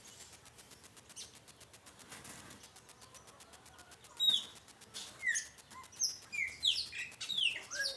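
A songbird singing: after a few seconds, a run of short, clear, downward-slurred notes that comes thicker and faster toward the end. Before it, a faint rapid ticking, about eight ticks a second.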